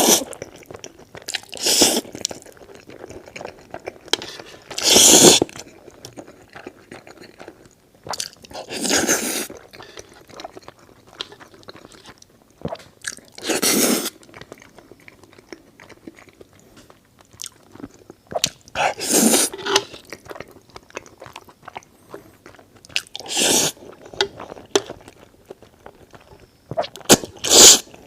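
Close-miked eating of noodles: a loud slurp about every four seconds, with quieter chewing between.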